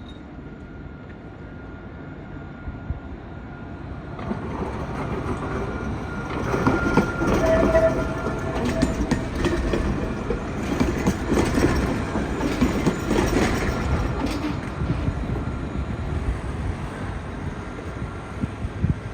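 A Lyon tram running on its rails past the station. It grows louder from about four seconds in, with brief wheel squeals in the middle, and stays loud as it passes.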